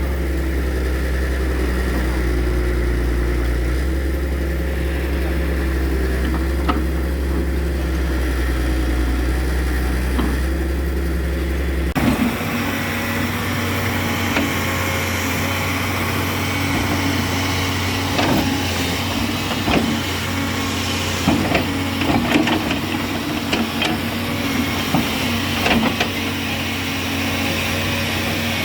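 Kobelco SK200-3 excavator's diesel engine running steadily. About twelve seconds in the sound changes abruptly to a higher, steady engine hum with scattered metallic knocks and clanks.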